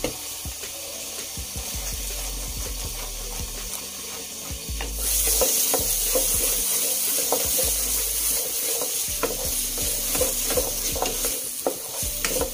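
Thick onion-and-spice masala sizzling in a nonstick kadhai while a spatula stirs and scrapes through it, being fried until the masala is done. About five seconds in, the sizzle grows louder and the spatula strokes come in quick succession.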